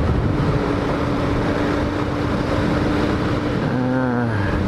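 Hawk 250 dual-sport motorcycle's single-cylinder engine running at a steady cruising speed, one even engine note, under heavy wind noise on the microphone from riding.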